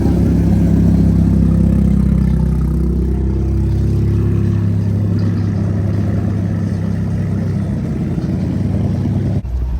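Car engines running with a loud, low exhaust rumble whose pitch shifts slightly a few seconds in; the sound changes abruptly shortly before the end.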